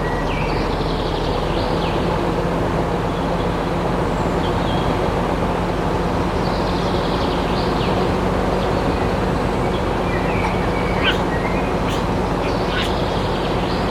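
A small machine running steadily, a dense mechanical noise with a constant low hum, while birds chirp now and then above it.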